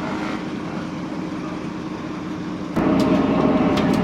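A large engine running with a steady hum, which jumps suddenly louder near the end, with a few sharp clicks.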